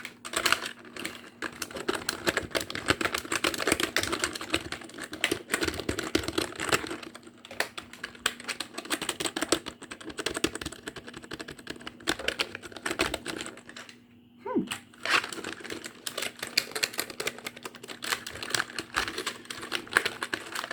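Computer keyboard typed on very fast: a dense, near-continuous clatter of key clicks, with a brief pause about two-thirds of the way through. A faint steady hum runs underneath.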